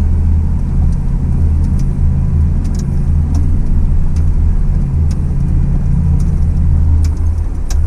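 Full-size pickup truck's engine and drivetrain rumbling steadily in four-wheel drive, heard from inside the cab, with scattered knocks and rattles from the rough trail.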